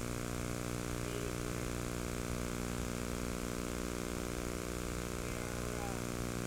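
Steady rain and hurricane wind, an even unbroken rush of noise, with a steady low hum underneath.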